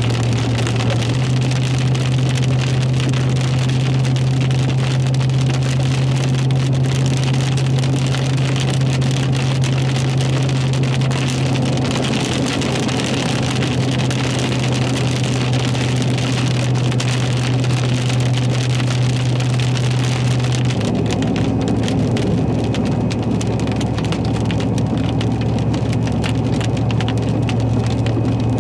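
Heavy rain pounding on a moving car, heard from inside the cabin over a steady low engine and road drone. About two-thirds of the way through, the drone shifts slightly lower in pitch.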